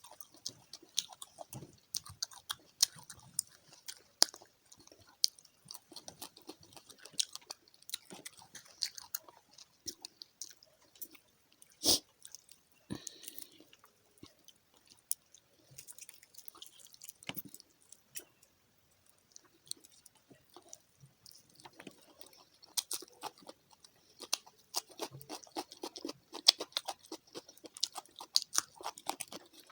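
Close-up chewing and crunching of fried fish, with many short crisp bites and one louder crack about twelve seconds in.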